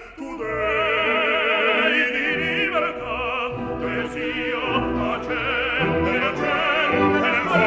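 Operatic singing with wide vibrato over an orchestra, the voice holding long notes. There is a brief drop in level right at the start before the singing swells back.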